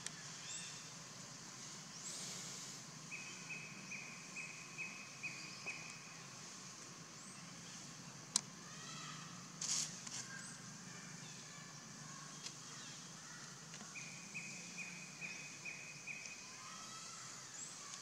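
Outdoor ambience with a steady high hiss, in which a bird repeats a short call about twice a second in two runs of a few seconds each. A single sharp click comes about eight seconds in, and a brief rustle just before ten seconds.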